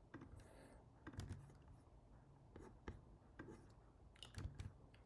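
Faint, scattered clicks of a computer keyboard and mouse: a few separate taps a second or so apart.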